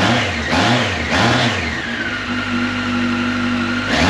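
2002 Yamaha XJR 1300's air-cooled inline-four, on its original stock exhaust cans, blipped three times in quick succession, then settling back to a steady idle before another blip starts near the end.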